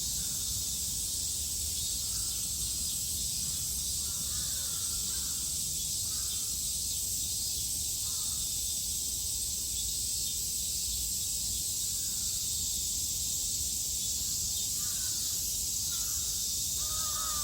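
Cicadas buzzing in a steady summer chorus, with crows cawing in short calls every few seconds; the loudest caws come near the end. A low rumble runs underneath.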